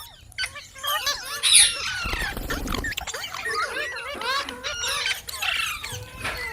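Parrots squawking and chirping, many short rising and falling calls overlapping, with a louder harsh squawk about a second and a half in.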